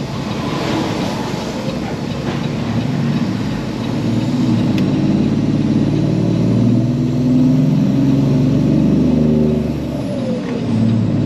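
Diesel engine of a loaded Peterbilt semi truck pulling ahead under power, its note climbing steadily from about four seconds in, then dropping briefly near the end before picking up again.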